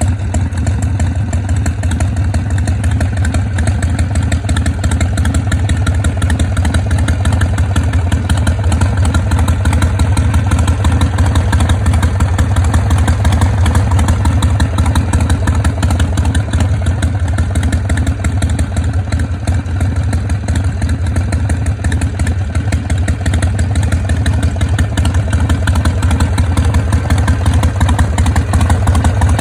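Harley-Davidson Sportster 1200's carburetted 45-degree V-twin idling steadily through its exhaust, with the slow, uneven three-beat (sanbyoshi) lope.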